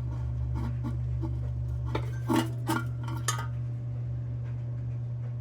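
Rusty tin lantern parts clinking and scraping as a seized part, freshly oiled, is worked loose by hand. There are a dozen or so light clicks and scrapes, mostly in the first three and a half seconds, over a steady low hum.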